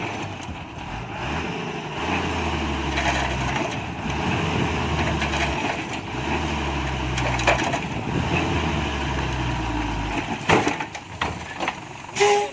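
Diesel engine of a Hyundai 5-ton dump truck revving up and down as it tries to work free from mud, followed by a few sharp knocks near the end.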